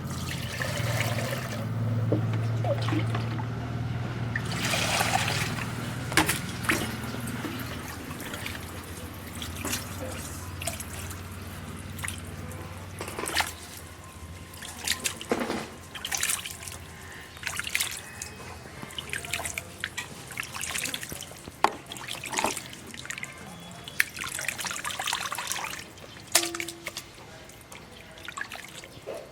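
Water trickling and dripping, with scattered clicks and knocks throughout. A low hum runs under roughly the first half and then fades out.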